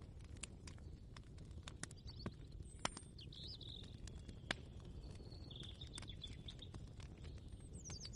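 Kitchen ambience soundscape: scattered light knocks and clicks at irregular intervals over a steady low rumble, with a few short bird chirps from about two seconds in and again near the end.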